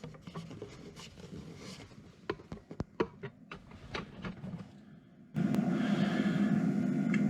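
Scattered light clicks, knocks and rubbing from things being handled and moved in a workshop. About five seconds in, a steady hum starts suddenly.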